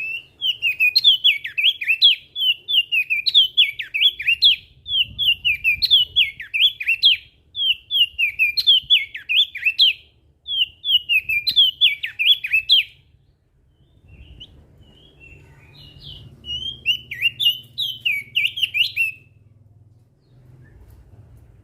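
Crested white-eye (opior jambul) singing: rapid, busy phrases of sharp high chirping notes, each about a second long, repeated almost without pause, then breaking off about thirteen seconds in for softer scattered notes before one more run of phrases.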